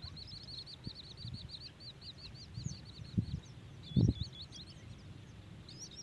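A bird calling in a rapid string of short, high chirps, about five a second, then a few more after a brief pause. Two dull low thumps come about three and four seconds in, over a faint low rumble.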